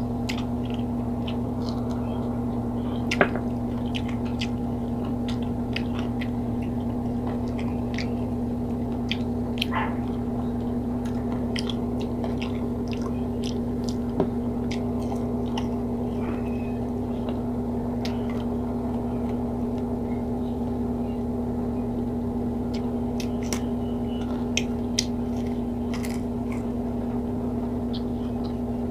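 Close-up chewing and biting of pork pieces, with scattered small crunches and wet mouth clicks, the sharpest about three seconds in. A steady low electrical hum runs underneath.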